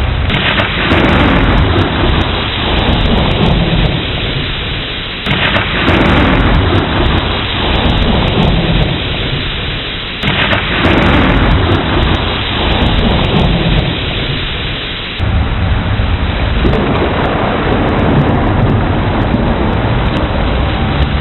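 Steady heavy rain with rolling thunder. The rumble swells suddenly about every five seconds, then dies away.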